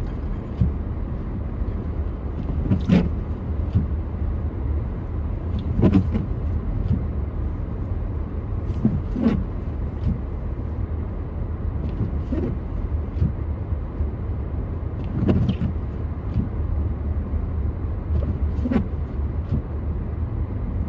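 Steady low road rumble inside a moving car, with a short sound repeating about every three seconds.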